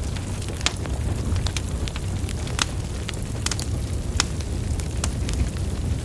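Wood fire burning, with a steady low rumble of flames and sharp crackles and pops from the logs, about one prominent pop a second.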